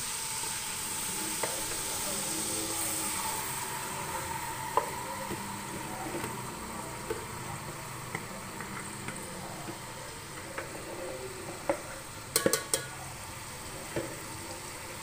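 Yogurt-marinated chicken sizzling in hot oil in a metal pot as it is added and stirred, with a spoon scraping and clicking against the pot; a quick run of sharp clinks about twelve seconds in.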